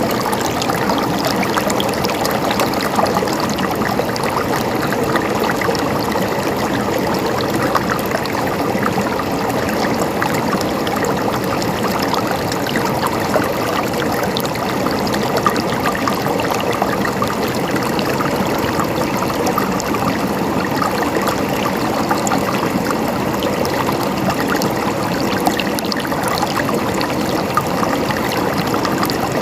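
Steady running water: a stream babbling and trickling, with many small splashes and gurgles and no let-up.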